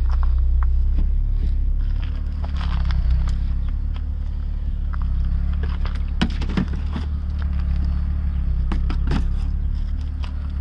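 A car engine idling with a steady low hum, and scattered light clicks and knocks about six to seven seconds in and again near nine seconds.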